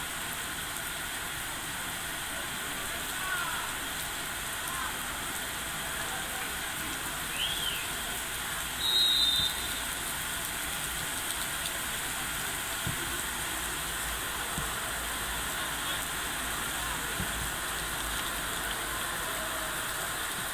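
Steady rain falling, with faint distant voices. A short high whistle blast about nine seconds in.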